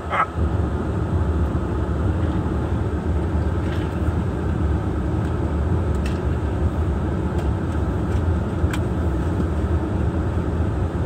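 Steady low engine rumble of idling vehicles, heard from inside a car's cabin, with a couple of faint clicks.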